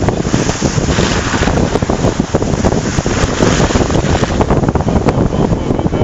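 Loud, steady wind buffeting the microphone, with a heavy low rumble and crackling gusts.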